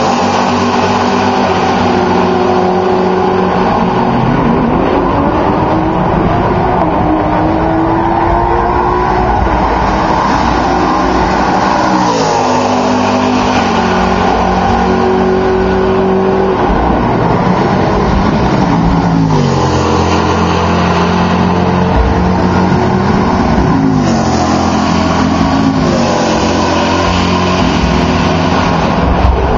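Several race cars at full throttle one after another, their engine notes overlapping: pitches rise as cars accelerate, then sweep down as each one passes, several times.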